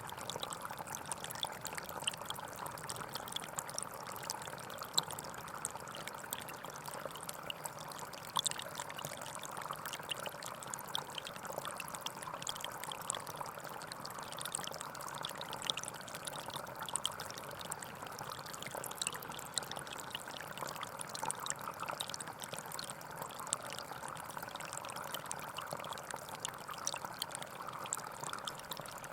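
Gentle forest stream flowing steadily, an even rush of water with small splashes and droplets throughout.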